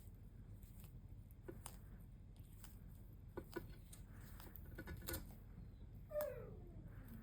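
Tortoises biting and tearing dandelion leaves: a few sharp, crisp crunches spaced a second or two apart. About six seconds in comes a single falling call.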